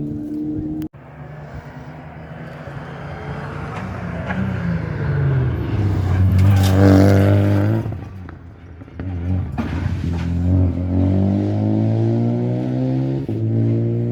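Rally car engine at full throttle. After a sudden cut about a second in, it builds as the car approaches and is loudest as it passes. It dips briefly, then climbs hard again through the gears, with a shift near the end.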